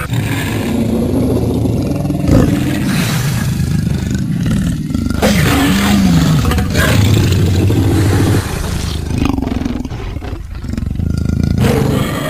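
Long, loud cartoon lion roar from an animated lion character, wavering up and down in pitch, with a short dip about ten seconds in.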